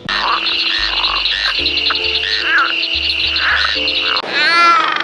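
Frogs calling in a chorus: a steady, pulsing high trill with scattered croaks over it. About four seconds in, a louder, high wavering cry from a different animal cuts in.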